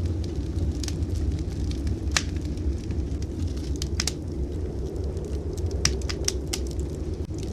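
Wood fire crackling in a fireplace, with sharp irregular pops every half second to second, over a steady low rumble of blizzard wind.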